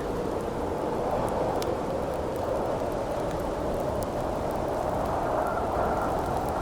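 Howling wind, a steady rushing sound whose pitch drifts slowly up and down, with a few sharp crackles and pops from a wood campfire.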